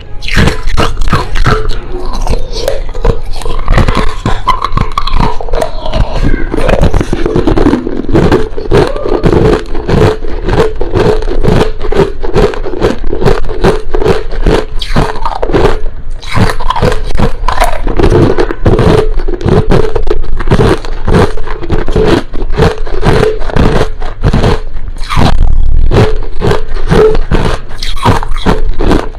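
Crushed ice being bitten and chewed, a rapid, continuous crunching and crackling.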